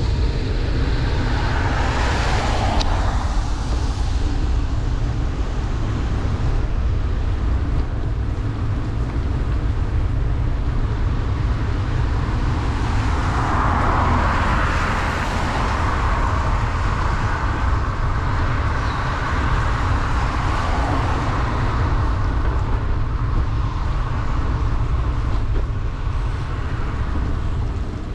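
Steady wind rumble on the microphone of a bicycle riding downhill in heavy rain, over the hiss of wet road noise. A vehicle swishing past on the wet road swells in about thirteen seconds in and fades after about twenty seconds.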